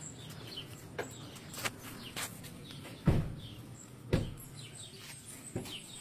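Birds chirping faintly over low background noise, with a few light knocks and two louder thumps about three and four seconds in.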